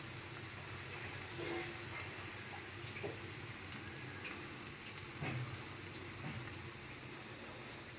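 Okra and onion-tomato masala sizzling in hot oil in a frying pan: a steady frying hiss with a few faint pops. The masala is being roasted on the flame after it has started to release its oil.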